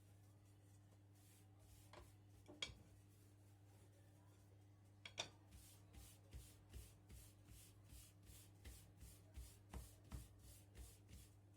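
Quiet hand work: a few sharp clicks, then a run of soft, even rubbing strokes, about two or three a second, over a low steady hum.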